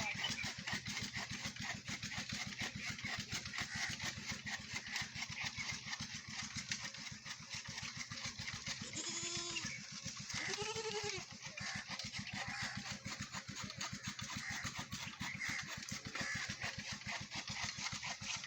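Goat bleating twice about halfway through, two short calls that rise and fall in pitch, over the steady rapid throb of an engine running.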